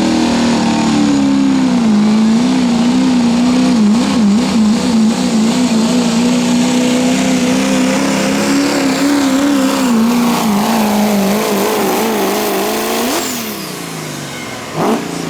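Turbocharged diesel pickup in the 2.6 pulling class running at full throttle down the track, a loud drone whose pitch wavers up and down, then falling away about 13 seconds in as the driver lets off. A brief rising-and-falling note near the end.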